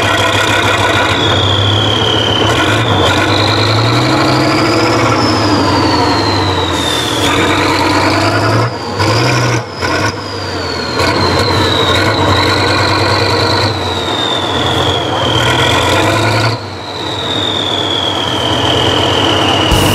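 Tractor engine working under load, its revs rising and falling repeatedly, with a high whine that climbs and drops along with it. The sound briefly drops out about halfway through and again a few seconds before the end.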